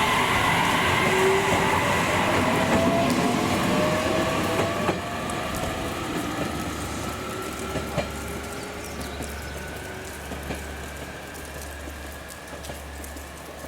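A train running and fading away, with a faint whine rising slowly in pitch and a few sharp clicks of the wheels over rail joints.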